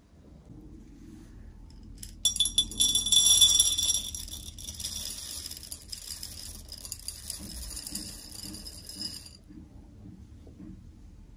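Metallic jingling and rattling that starts suddenly about two seconds in, is loudest for the next two seconds, and dies away after about seven seconds.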